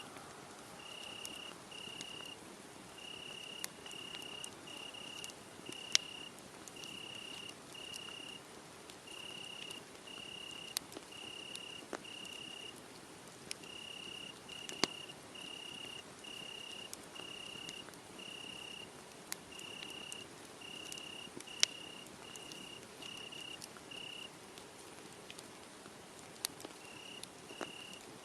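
A cricket chirping in a steady run of short high trills, a little more than one a second, that falls silent for a few seconds near the end and then resumes. Under it a wood fire crackles, with a few sharp pops.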